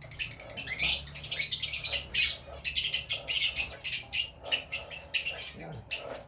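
A flock of caged small birds chirping, a dense, unbroken chatter of short, high chirps, several to the second. The birds are hungry at feeding time.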